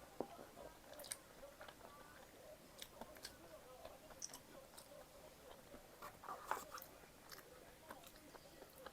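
A person eating, faint close-up chewing with small wet mouth clicks and crackles scattered throughout, a brief louder cluster about six and a half seconds in.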